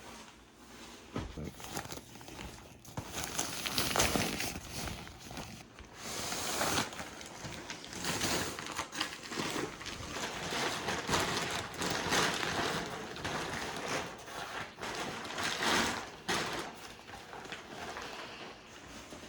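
Irregular rustling and crinkling of things being handled and moved about, such as fabric or plastic, in uneven swells with no steady rhythm.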